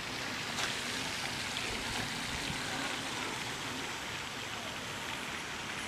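Steady water noise, an even hiss with no rhythm.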